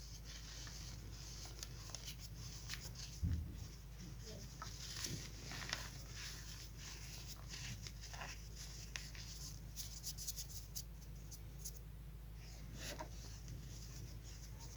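Chalk being crumbled and crushed: irregular fine crackling and gritty crunching with scattered small snaps, and one soft thump about three seconds in.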